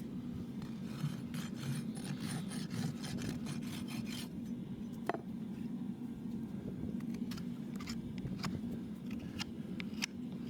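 A farrier's rasp filing a horse's hoof in repeated scraping strokes, quicker through the first few seconds and more spaced out after, over a steady low hum.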